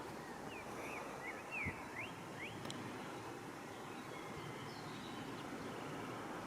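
Quiet outdoor background hum with a few short bird chirps in the first two and a half seconds, then only the steady background.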